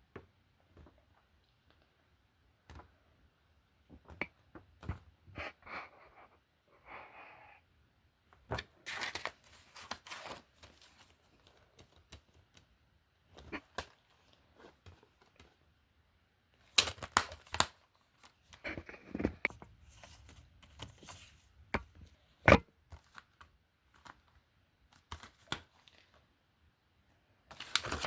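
Film and TV disc cases being handled: irregular clicks, clacks and knocks of plastic cases being picked up and set down, with short stretches of rustling and scraping. The sharpest knocks come a little after the middle.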